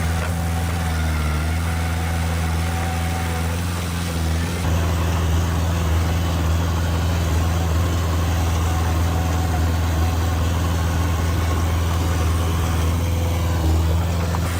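Heavy earthmoving machine's diesel engine running steadily, growing a little louder about four and a half seconds in.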